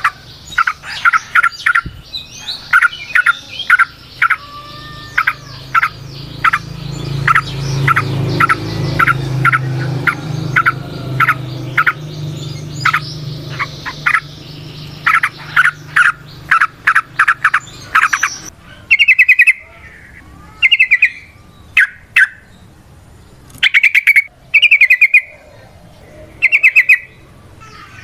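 Yellow-vented bulbul (trucukan) singing: a long run of sharp, quickly repeated chirps over a low background hum, then from about two-thirds of the way in, short loud rapid trills repeated about once a second.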